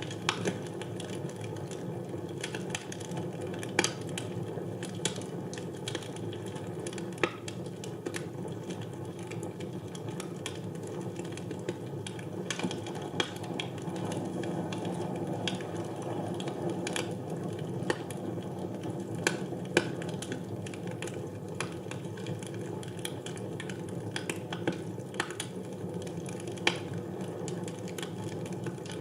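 Wood fire burning in a fireplace: a steady low rush of flames with irregular sharp crackles and pops, a few of them louder.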